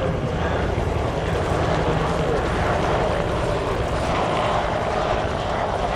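Bell helicopters, a UH-1H Huey and an AH-1F Cobra, running steadily with loud rotor noise as they come in to land.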